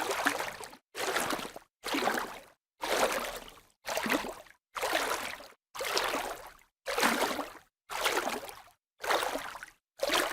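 A series of short bursts of rushing, sloshing water noise, about one a second, each starting suddenly and fading before a silent gap, like a string of edited water clips.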